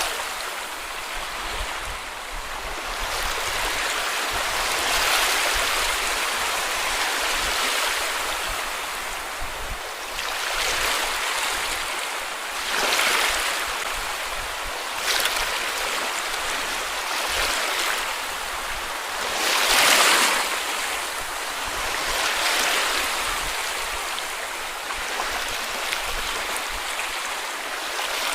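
Small sea waves washing onto a beach, a continuous wash with a new wave breaking every few seconds; the loudest break comes about two-thirds of the way through.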